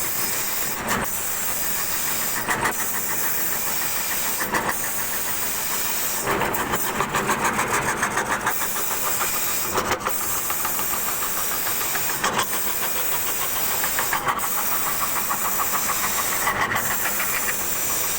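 CNC wood router cutting wood: a steady high hiss from the spindle and bit, with brief dips every couple of seconds and a stretch of fast, even chatter in the middle.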